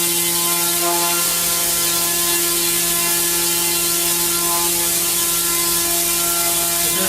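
Engine of a single-engined rotary-wing micro air vehicle running steadily at constant speed: a loud, even buzz over a high hiss.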